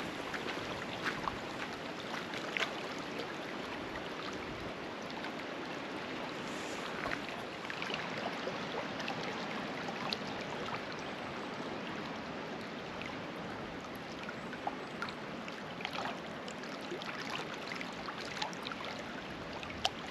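Running stream water rushing steadily, with faint scattered ticks and clicks.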